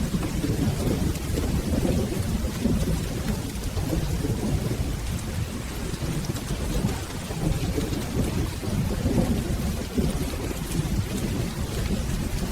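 Steady rainfall with a continuous low rumble of rolling thunder that swells and eases without a sharp clap.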